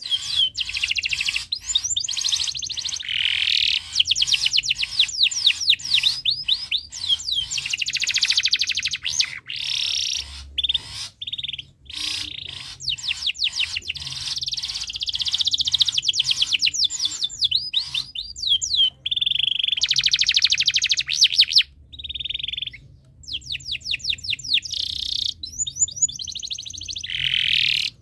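Domestic canary singing a long, continuous song of rapid trills and fast repeated notes, with two short breaks, about eleven and twenty-two seconds in. A canary in breeding condition singing hard.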